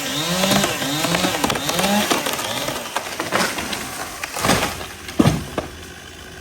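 Two-stroke Stihl chainsaw cutting wood, its engine note swinging up and down about twice a second as the throttle is worked, then easing off. Two loud cracking impacts follow near the end.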